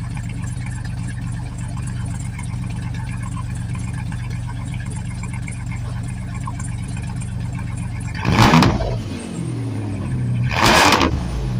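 V6 engine of a Dodge Ram van, exhaust straight-piped with the muffler deleted and the catalytic converter kept, idling steadily, then revved in two short throttle blips near the end, each rising and dropping back quickly.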